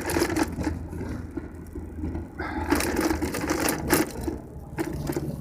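Scooter running on the move: a steady low hum with a light mechanical rattle, and rushes of hissy noise at the start and again from about halfway to four seconds in.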